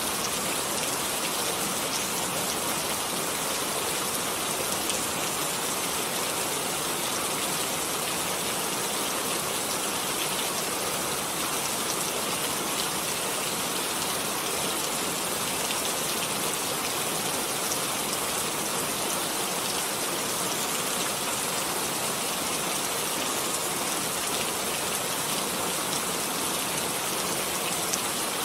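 Steady rainfall: an even hiss of rain with many small drops pattering on a surface, unchanging throughout.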